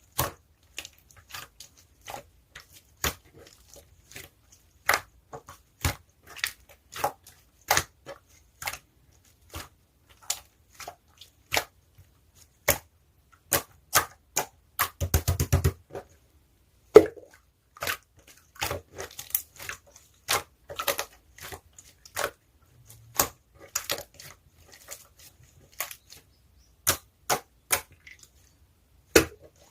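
Blue slime topped with small round add-in balls being pressed and poked by hand, making sharp clicks and pops every second or so, with a quick run of rapid clicks about halfway through.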